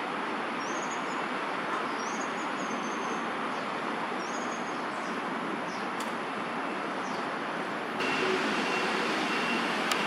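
Short, high bird chirps repeated several times in the first half, over a steady rushing background noise that steps up in level about eight seconds in.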